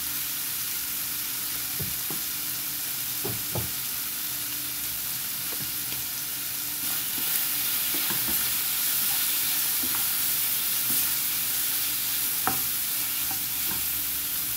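Beef liver pieces sizzling in hot oil in a skillet, stirred with a spoon that scrapes and clicks against the pan now and then. The sizzle gets a little louder about halfway through, once the stirring is under way.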